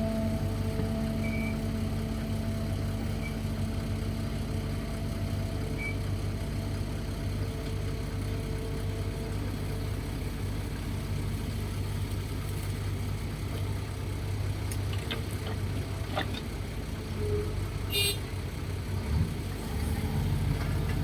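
Excavator's diesel engine running steadily at work, with a few sharp knocks about three quarters of the way through.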